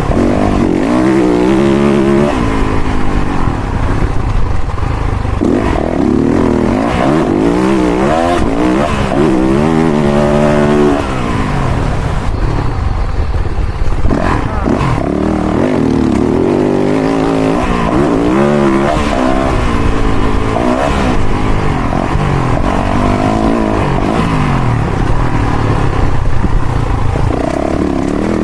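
Motocross dirt bike engine revving up and down again and again as the rider accelerates, shifts and backs off around a track. There is a short drop near the middle and a sharp knock shortly after.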